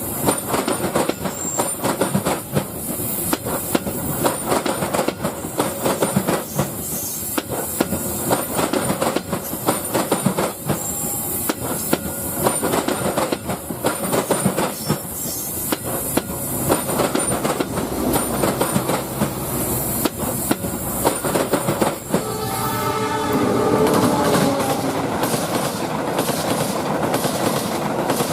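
A train running on its track, wheels giving a fast, steady clickety-clack over the rail joints. About three-quarters of the way through the sound changes, and a gliding pitched tone is heard for a couple of seconds.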